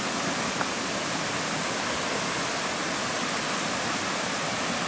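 Steady rush of fast-flowing river water, an even unbroken hiss of noise.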